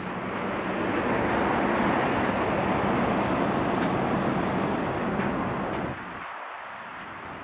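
Jet engines of a Bombardier CRJ-700 regional jet, twin GE CF34 turbofans, passing close on short final. A steady, broad rushing noise swells over the first second and cuts off abruptly about six seconds in.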